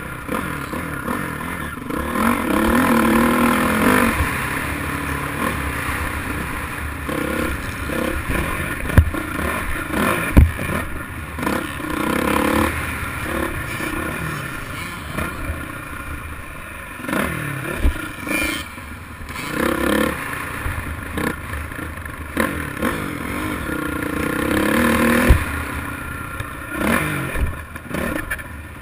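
Motocross dirt bike engine revving up and dropping back again and again under riding load, with clattering and a few sharp knocks.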